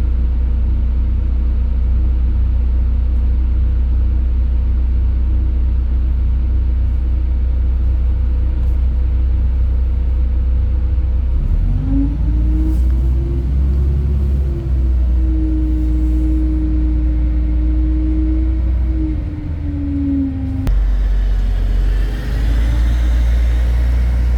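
LiAZ 5292.67 city bus with a Weichai WP7NG280E51 natural-gas engine, heard on board: a steady low rumble as it runs. About halfway through the engine note rises, holds for several seconds and then drops away, and near the end it starts rising again, as the bus gathers speed.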